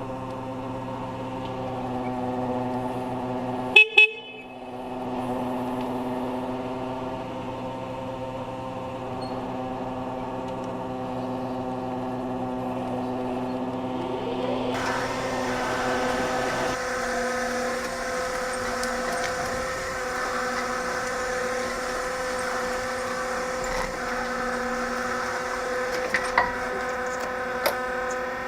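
Lift truck (forklift) running with a steady machine hum, its horn giving two short beeps about four seconds in. About halfway through the hum rises in pitch and changes tone, and a few sharp clicks come near the end.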